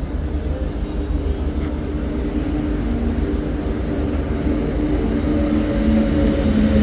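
Passenger train arriving at a station: a steady low rumble with a few held tones, growing gradually louder as it approaches.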